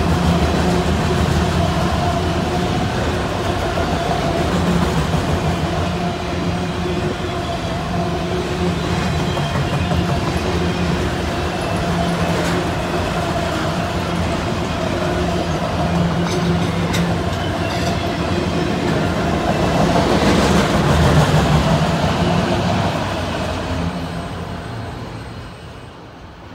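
Autorack freight cars rolling past: a steady wheel-on-rail rumble and hum with occasional clicks. It swells about twenty seconds in as the last cars go by, then fades away once the end of the train has passed.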